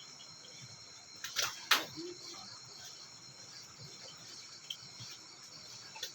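Insects chirring steadily in high, even tones, broken about one and a half seconds in by two sharp knocks in quick succession, the second the louder.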